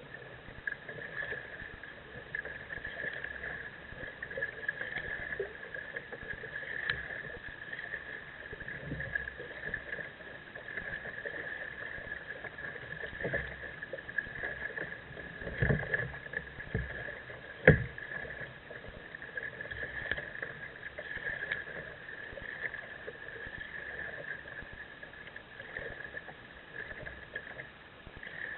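Kayak paddle dipping and splashing in the water at an uneven pace, over a steady high-pitched tone, with one sharp knock about eighteen seconds in, the loudest moment.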